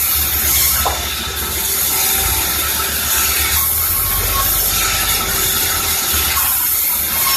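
Sawmill machinery running steadily, with a continuous loud mechanical din.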